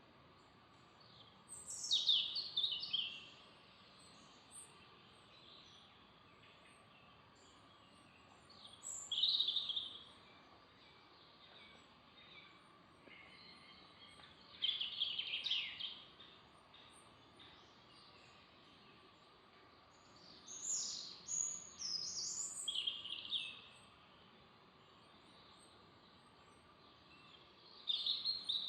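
A songbird singing short, bright, high-pitched phrases, five of them about every six seconds, over a faint steady background with a thin, steady hum.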